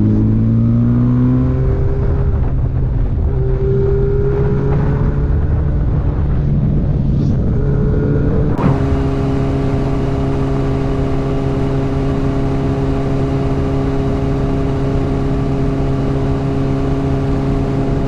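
Motorcycle engine running under a rider, its pitch rising and falling with throttle and gear changes. About eight seconds in it switches abruptly to a steady engine note held at one pitch.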